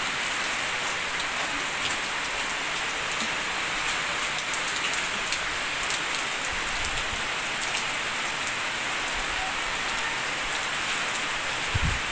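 Heavy rain falling steadily, a dense hiss with individual drops pattering on nearby surfaces.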